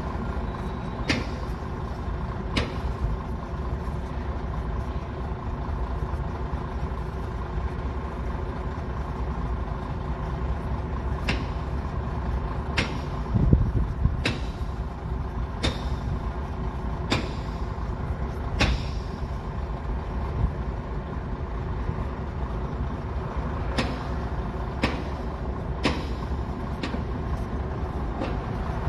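Heavy diesel equipment running steadily at a rail derailment cleanup. Sharp metallic clanks and knocks come every second or two, with one heavier thump about halfway through.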